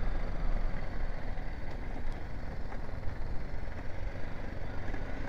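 BMW G 310 GS motorcycle's single-cylinder engine running steadily while the bike is ridden.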